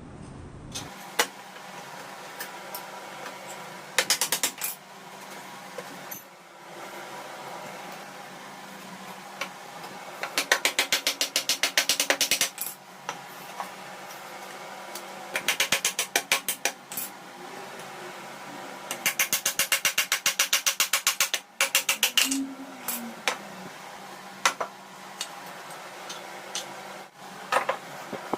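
Hand-tool work on a metal machine: several runs of quick, even clicking or tapping, about eight a second for a couple of seconds at a time, with single knocks between, over a steady background tone.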